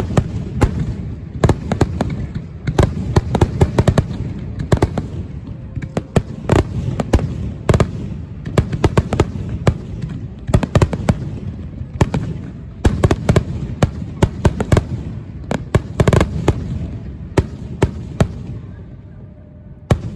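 Aerial fireworks bursting in a rapid volley, several sharp bangs a second over a low rumble, thinning out near the end.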